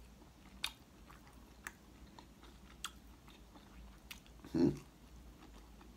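A person chewing food with the mouth, quiet, with a few faint sharp clicks spread through it and a short voiced sound, like a hum, about four and a half seconds in.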